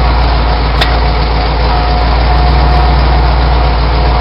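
1996 Ford F-150's engine idling through BBK headers and a straight-piped Flowmaster exhaust: a steady, loud, low rumble.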